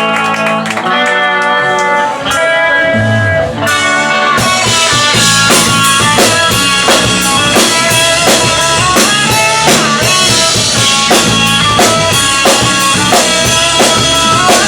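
Live rock band playing: electric guitar alone at first, then the drum kit and bass come in about four seconds in with a steady beat.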